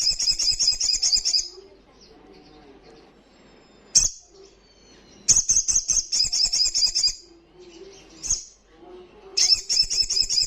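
A sogon (sogok ontong) bird singing loudly in three bursts of rapid, high trilled notes, each about two seconds long. Single sharp call notes come between the bursts.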